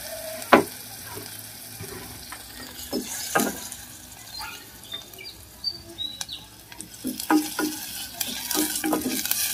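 Garlic and shallot slices sizzling in a small stainless steel pot on a gas burner, stirred with a wooden spatula that knocks sharply against the pot a few times.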